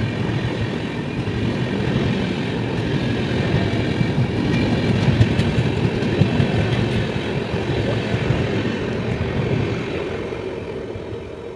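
Indian Railways express train's passenger coaches passing at speed, a steady rumble of steel wheels on the rails. The sound eases off near the end as the last coach goes by.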